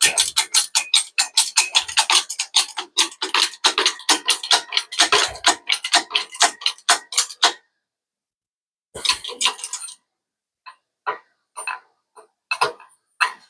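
Quick rasping strokes on sheet metal, about five a second, stopping about seven and a half seconds in; after a pause, a few scattered light taps and clicks.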